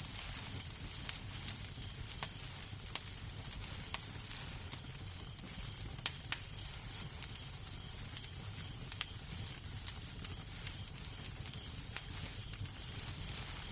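Wood fire in a fireplace crackling: irregular sharp pops and snaps scattered over a steady low rumble and hiss.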